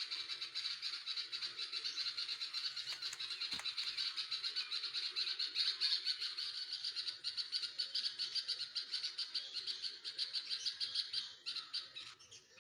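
Baby birds in the nest begging: a continuous, rapid, high-pitched chirping that drops off near the end.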